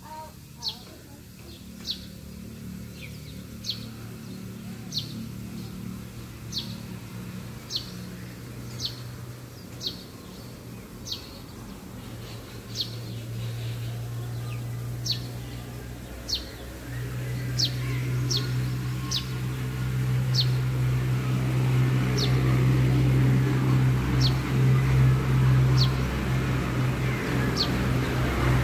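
A bird repeating one short, high, falling chirp about every second and a half. Underneath, a steady low hum grows louder from about halfway through and becomes the loudest sound.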